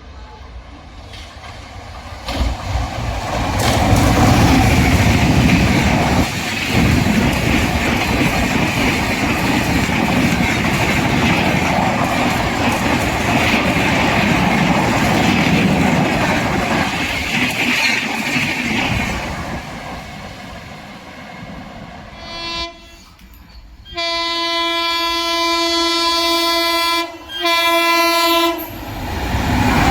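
An express train passing at speed: a loud rush of wheels on rail builds over the first few seconds, holds, and fades about twenty seconds in. Near the end a train horn sounds, a short toot and then a long blast broken once, about five seconds in all.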